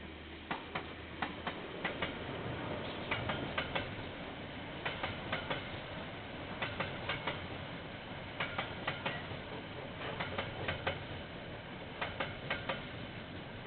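Train wagons rolling past, their wheels clicking over rail joints in clusters of a few clicks about every two seconds, over a steady rumble. It is picked up through a security camera's microphone, so the sound is thin and lacks the highs.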